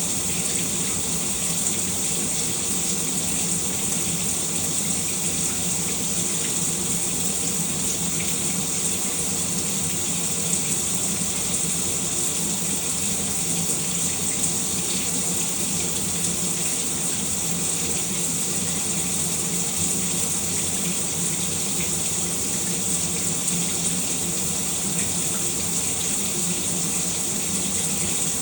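Shower running: a steady spray of water falling with an even hiss.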